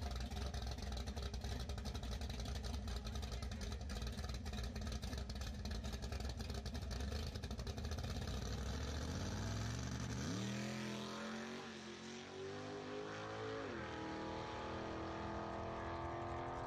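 A drag car's engine idling with a choppy, uneven rumble at the starting line, then revving up about nine seconds in as the car launches and pulls away down the strip. Its pitch climbs, drops once and climbs again.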